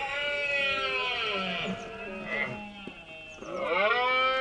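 Red deer stags bellowing in the rut: two long calls, each rising and then falling away at the end, about two seconds apart, over soft background music.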